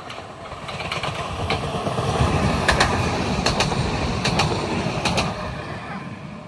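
A regional train passing by, building to a loud rumble and fading away. Sharp clicks come in pairs about a second apart as its wheels cross rail joints.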